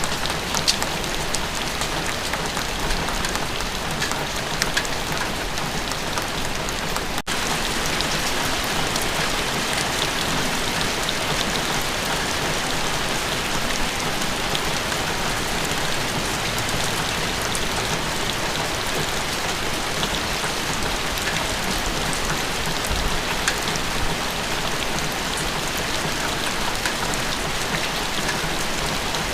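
Steady rain falling: an even hiss with scattered drop ticks. There is a split-second gap about seven seconds in.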